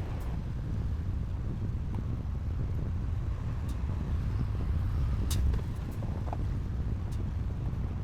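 Diesel engine of heavy earthmoving machinery running steadily with a low rumble, with a few sharp metallic clanks.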